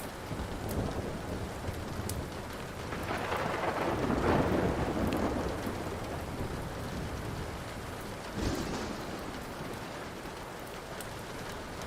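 Steady rain with thunder rolling, swelling to a long rumble a few seconds in and a shorter one near the end, over scattered pops and crackles of a wood fire.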